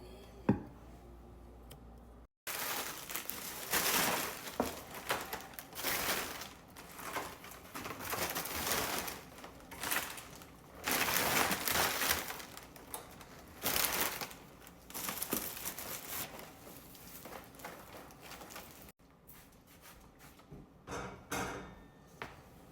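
Plastic grocery packaging crinkling and rustling in uneven bursts as it is handled, with a sharp knock about half a second in.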